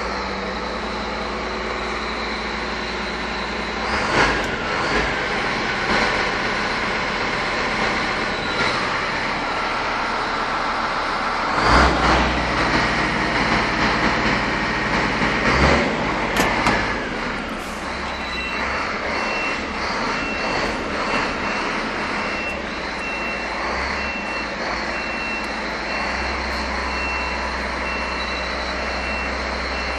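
Scania R420 truck's inline-six diesel engine running, with louder surges about 4, 12 and 16 seconds in. From a little past the middle, a high beep repeats at an even pace over the engine.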